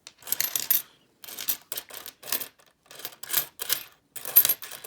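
Pennies from an opened coin roll clinking against one another as they are handled and sorted, in short clusters of sharp clicks about every half second.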